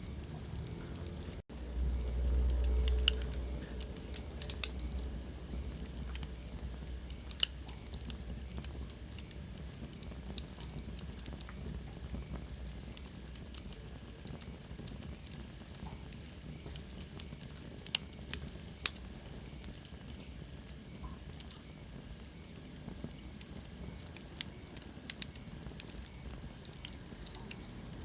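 Wood fire crackling in a fireplace: irregular sharp pops and snaps over a soft steady hiss. A brief low rumble comes about two seconds in, and a faint high whistle slides down in pitch near eighteen seconds in.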